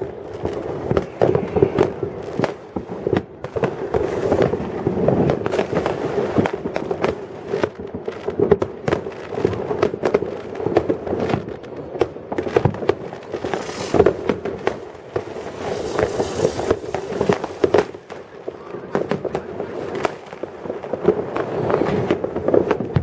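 Fireworks going off all over town: a dense, irregular stream of bangs and crackles, with several sharp reports each second layered over a continuous rumble of more distant salutes.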